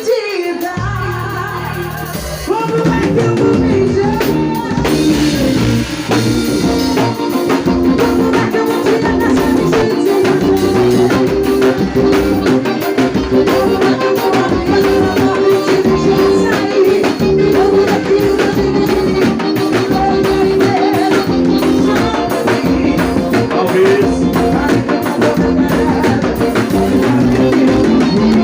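Live forró band music: a steady drum-kit beat under a sustained melody, the full band coming in about two and a half seconds in.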